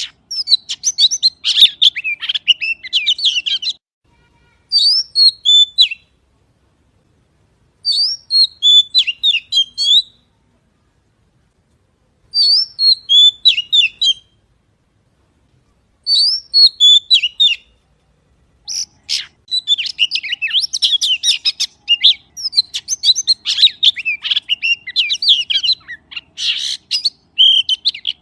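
Magpie singing in rapid, high chirping and whistled phrases. At first the phrases come in short bursts a couple of seconds apart, then from about two-thirds of the way through they run on almost without a break.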